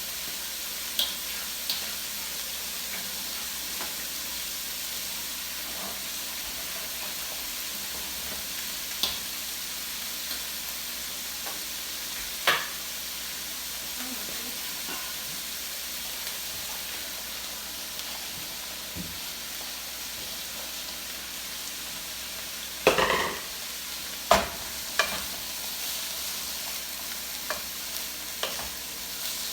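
Hot oil sizzling steadily in a frying pan, with a few sharp clinks and knocks of a utensil against the pan, the loudest two a little past the middle.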